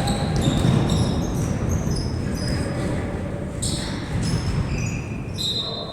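Basketball game sounds: sneakers squeak again and again on a court, over a dense low background of voices and movement.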